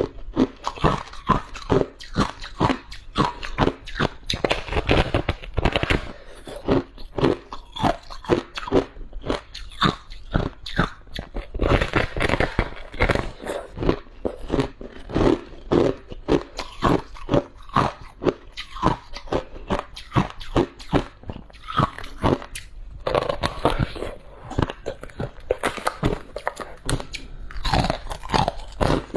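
Close-miked chewing of soft, crunchy freezer frost: a steady run of rapid crunches as the frost is bitten and chewed, several to the second.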